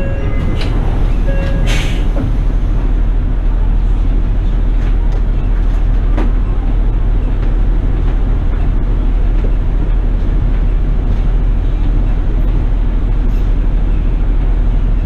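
Steady low rumble of engine and road noise heard inside a moving city bus, with a couple of short electronic tones in the first two seconds.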